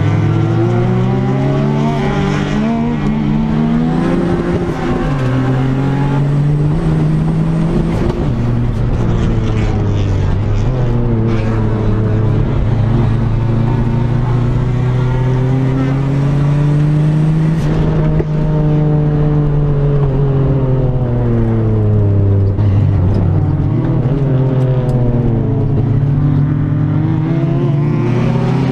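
Turbocharged Daihatsu Mira L500 (Perodua Kancil) race car's engine heard from inside the cabin at racing speed, its revs climbing and then dropping every few seconds through gear changes and corners.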